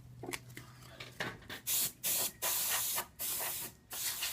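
Canned air duster blowing in about five short blasts of hiss, starting a little over a second in, after a few light handling clicks.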